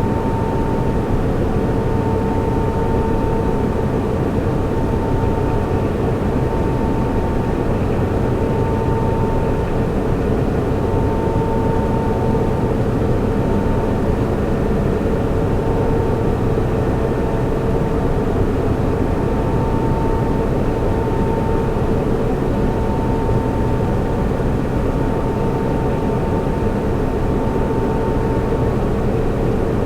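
Server room cooling fans and equipment running: a steady, loud rushing hum with a higher whine that comes and goes about every two seconds.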